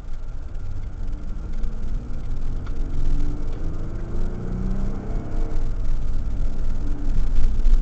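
Motor vehicle driving: a steady low rumble of engine and road noise, with a faint wavering engine tone above it.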